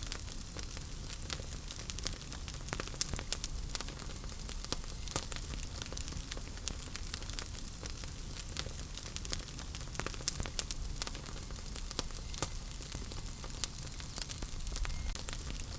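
Wood fire burning in a fireplace, with a steady low rumble and hiss under frequent irregular crackles and pops, a few of them sharper and louder.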